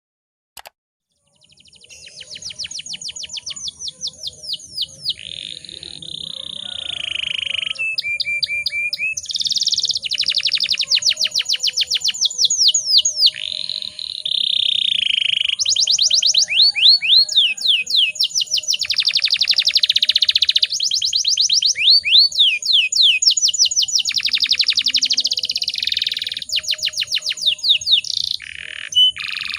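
Canary singing a long, continuous song of rapid trills and rolls broken by a few held whistled notes, starting about a second and a half in.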